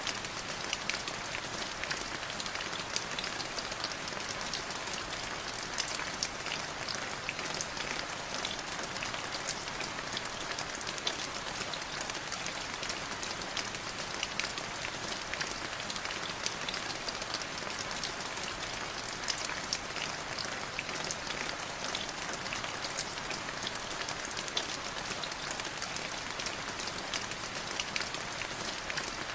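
Heavy rain falling steadily: a dense, even hiss of downpour with many fine drop ticks through it.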